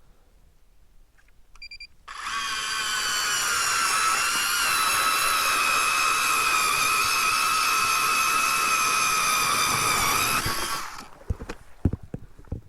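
Electric ice auger drilling a hole through the ice: a short beep, then a steady high motor whine that starts abruptly about two seconds in, dips slightly in pitch as it bites, and cuts off after about nine seconds, followed by a few knocks.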